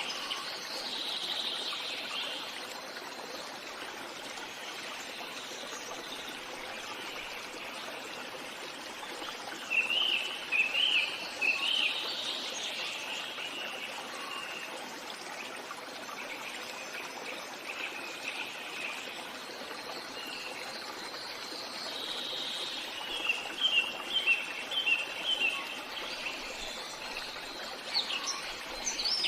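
Birds chirping in short runs of quick, high repeated notes, loudest about a third of the way in and again near the end, over a steady rushing background like running water.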